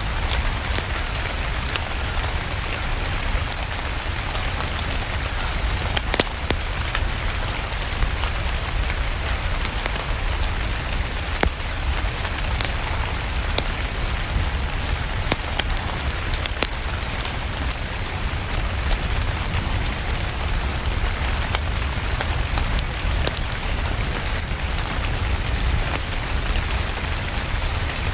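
Steady rain mixed with a crackling wood fire: an even rush of rain over a low rumble, with scattered sharp pops and clicks throughout.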